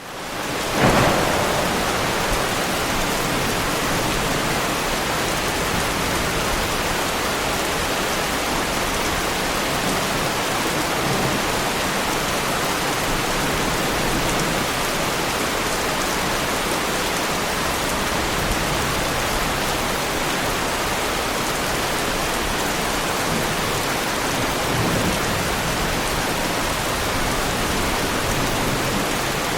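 Heavy rain falling on a car, a dense steady hiss that fades in at the start, with one louder burst about a second in.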